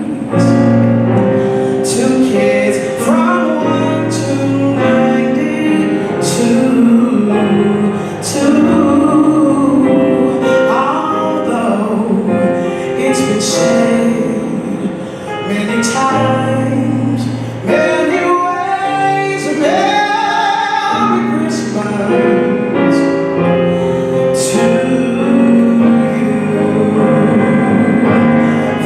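Live orchestra playing with singing voices, full and steady, with sharp percussion strokes through it.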